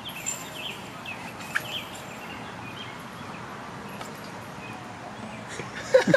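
Outdoor background noise with scattered short bird chirps, and a brief louder sound near the end.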